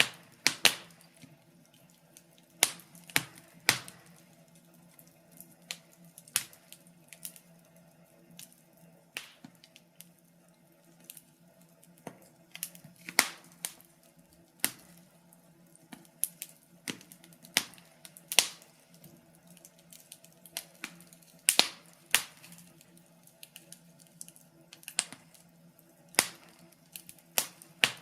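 Fire crackling in a fireplace: irregular sharp pops and snaps, a handful of them loud, over a faint steady low hum.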